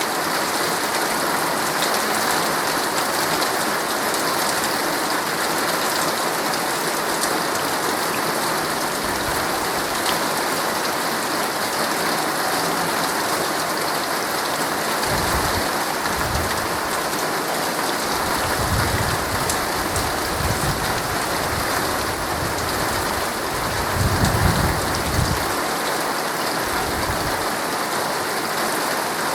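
Heavy rain pattering on a tent's fabric, a steady dense hiss. Low rumbles of thunder swell in during the second half, loudest about 24 seconds in.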